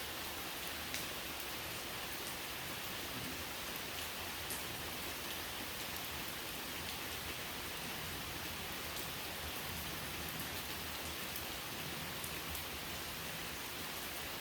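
Steady rain falling, an even hiss with a few scattered sharper drop ticks.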